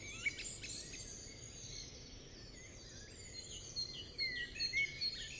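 Small birds chirping, with many short, high chirps and calls from several birds over a faint background hiss. The calling is sparse at first and grows busier about four seconds in.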